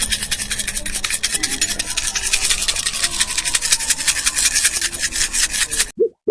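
Rapid, scratchy rasping, many strokes a second, that cuts off sharply near the end, where short pitched notes begin.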